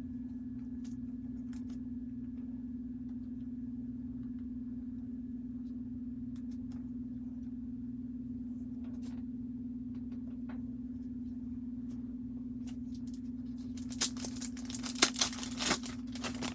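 A low steady hum with a few faint rustles; near the end, a trading-card pack wrapper is torn open and crinkles loudly.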